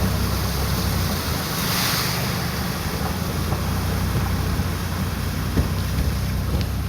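Wind rushing over the microphone with a steady low rumble from a moving car.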